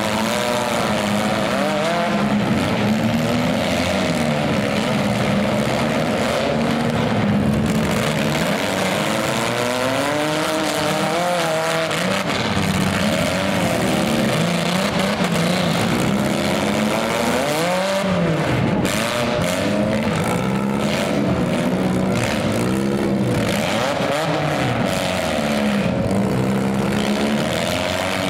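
Several demolition-derby minivan engines revving hard at once, their pitches rising and falling over one another as the vans ram and push each other.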